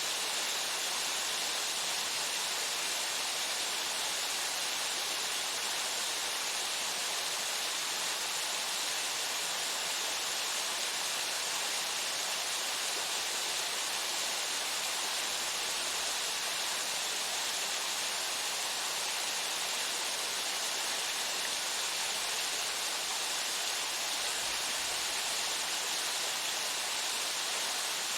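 Waterfall: water falling steadily and splashing, an even hiss with no change in level.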